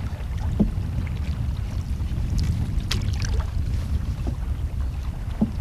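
Wind buffeting the microphone in a steady low rumble, with a few faint ticks and knocks.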